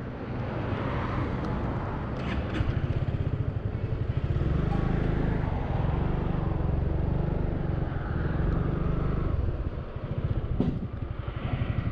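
Honda Forza 350 scooter's engine running steadily, a little louder through the middle, with a short sharp click near the end.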